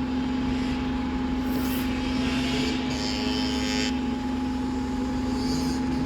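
Diesel bus engine idling with a steady low hum, and a brief hiss a few seconds in.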